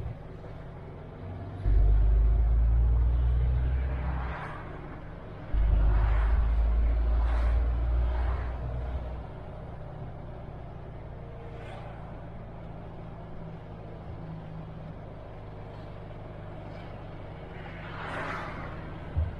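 MAN TGX truck engine running with a deep low drone that swells loud twice, about 2 and 6 seconds in, as it pulls, then settles to a quieter steady run. Several short hisses come through over it, and there is a brief knock near the end.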